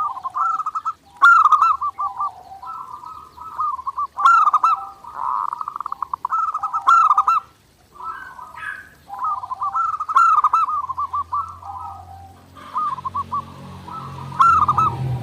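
Zebra dove (perkutut) cooing in repeated rapid, trilled phrases, one after another with short gaps. A few brief higher chirps sound over them, and a low rumble comes in near the end.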